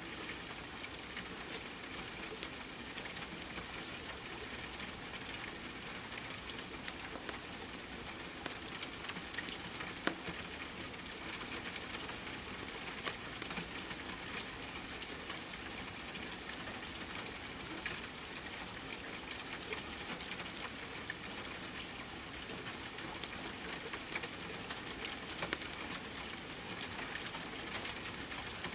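Steady rain hiss mixed with a fireplace fire crackling, scattered small clicks and pops throughout.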